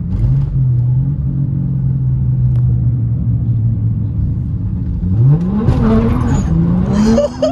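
Turbocharged 1JZ straight-six in a Toyota Mark II heard from inside the cabin, running steadily at cruise, then accelerating hard about five seconds in. Revs climb, drop briefly at a shift, and climb again.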